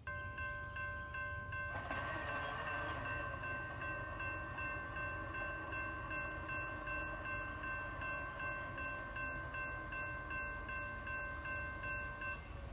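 Approaching freight train: a steady chord of several high tones sounds for about twelve seconds over a low rumble and stops shortly before the end.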